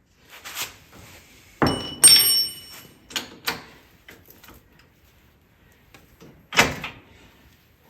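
Hammer blows on a metal punch, about five or six separate strikes spread unevenly, one near two seconds in leaving a metallic ring: driving a tight part into place.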